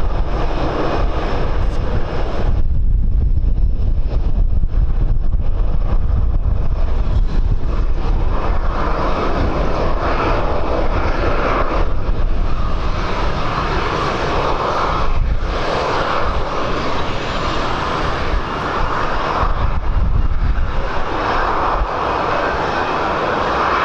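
Jet airliner engines running loud and steady as an aircraft moves on or near the runway, the noise swelling and easing, with gusting wind rumbling on the microphone.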